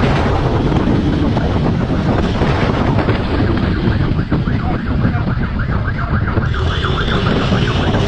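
Wind rushing hard over the microphone, mixed with vehicle engine and road noise at speed.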